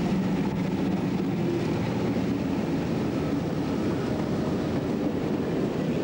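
Diesel locomotives of a container freight train passing close by, their engines running loudest at first, then the rumble of container flat wagons rolling over the rails.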